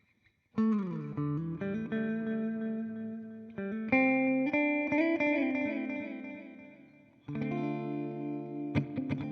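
Electric guitar played clean through a Nux Time Core delay pedal. Sustained chords are struck about every three seconds, the first one dipping in pitch as it starts. Quick repeated strokes begin near the end.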